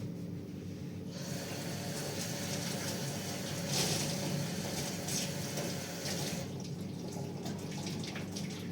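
Running water splashing, starting about a second in and thinning out past the middle, over a steady low hum.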